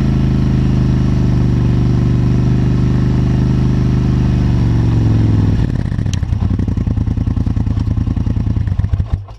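ATV engine running steadily, heard loud from close to its exhaust. About halfway through it drops to a lumpy, pulsing idle, then cuts off just before the end.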